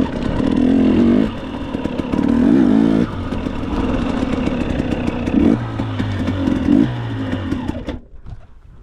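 Dirt bike engine running and revving in several bursts, with some clatter, then stopping abruptly near the end.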